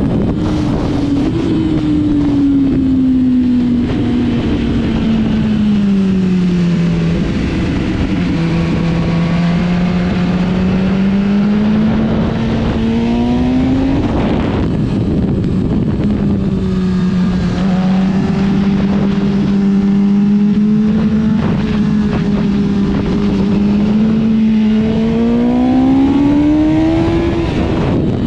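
Motorcycle engine being ridden at speed, its pitch sinking, holding, then climbing before dropping sharply about halfway through and again near the end, as it revs up and shifts. Wind rushes over the microphone throughout.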